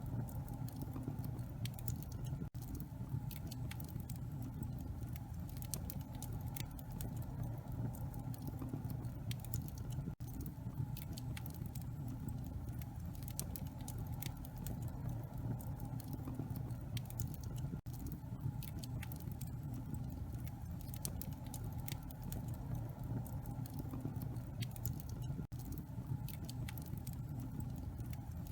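Wood fire crackling in a fireplace: many small sharp pops and snaps scattered over a steady low rumble. The sound dips out for an instant about every eight seconds.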